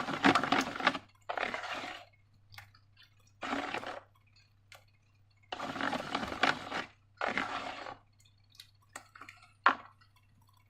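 Slime being squeezed and squished by hand in five short bursts, then one short sharp click near the end.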